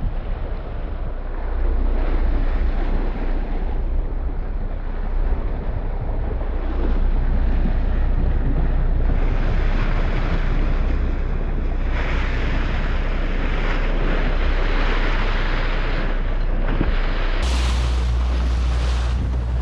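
Wind buffeting the microphone over open sea, with a heavy low rumble and a rushing hiss of water around a small boat that grows louder about halfway through.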